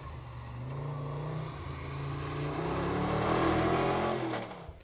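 A 5-litre V8 Tornado hill-rally 4x4's engine pulling hard under acceleration, its pitch and loudness rising steadily over about four seconds, then cutting off sharply just before the end.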